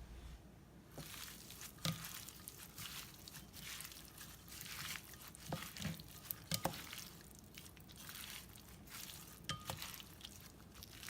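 Grilled beef salad being mixed in a mixing bowl with sliced beef, herbs and toasted rice powder: soft, irregular rustling with a few sharp clicks.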